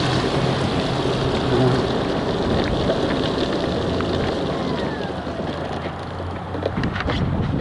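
Steady road and engine noise of a car being driven, with a low hum under an even rushing noise. A few sharp clicks and knocks come in near the end.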